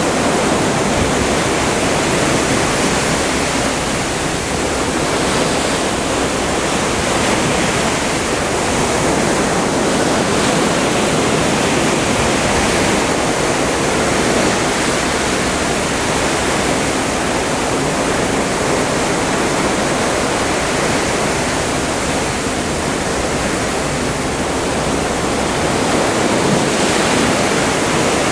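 Open Atlantic seawater rushing and churning along the hull of a moving cruise ship: a steady, loud wash with no breaks.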